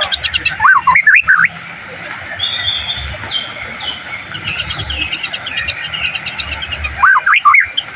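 White-rumped shama (murai batu) singing: loud, looping whistled phrases about a second in and again near the end, with fast repeated chattering trills in between.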